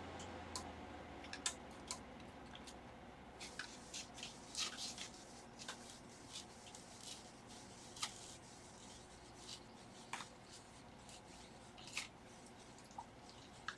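Faint, irregular small clicks and scrapes of hand tools working under the edge of a tablet's glued-on screen, with soft rubbing as the adhesive is pried and cut.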